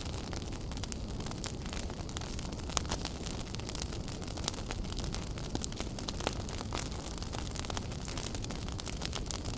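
Wood fire burning in a fireplace: a steady low rumble of flame with frequent sharp crackles and pops, a few louder snaps standing out.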